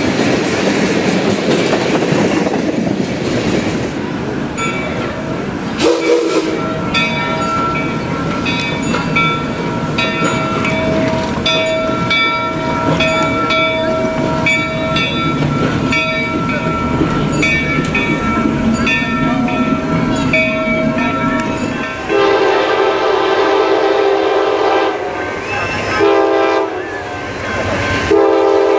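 Train rumbling and clacking along the rails. A bell then rings steadily for a long stretch with a strike about every 0.7 s, like a grade-crossing bell. Near the end the train's horn sounds in three blasts: a long one, a shorter one, and a third held on.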